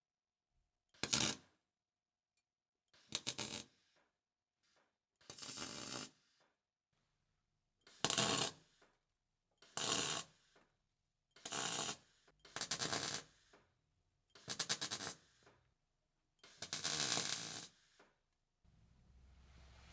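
A MIG welder laying short tack and stitch welds on exhaust pipe: about nine separate bursts of crackling, each under a second and a half, with silence between.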